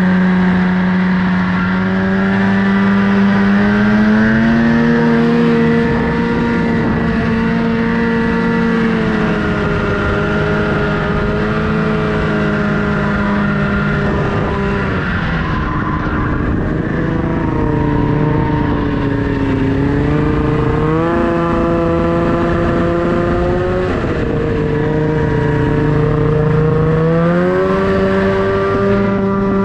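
Snowmobile engine running under varying throttle, its pitch climbing a few seconds in, dropping about halfway, then climbing again twice in the second half.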